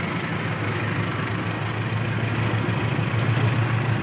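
Diesel locomotive engine running with a steady low throb that grows a little louder near the end, over the even hiss of heavy rain.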